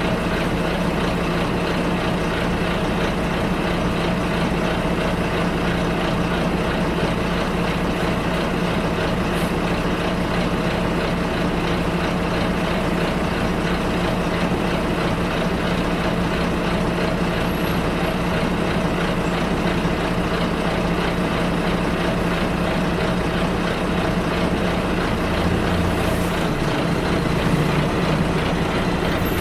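Bus engine and road noise during a ride, steady and even; a few seconds before the end the engine note drops lower.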